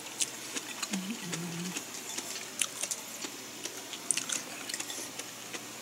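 A person chewing food with the mouth, giving scattered small wet clicks and smacks, with a short closed-mouth 'mm' hum about a second in.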